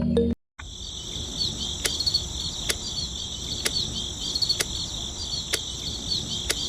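Insect chorus: a steady high-pitched trill with repeated chirps, crossed by sharp ticks about once a second.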